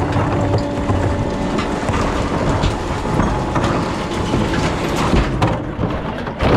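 Rear-loader recycling truck running: a loud, dense rumble with rattling and clatter, and a steady hum that fades out in the first couple of seconds.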